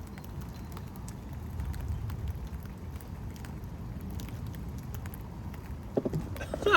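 Steady rain with faint scattered patter ticks over a low rumble, then a short vocal sound near the end.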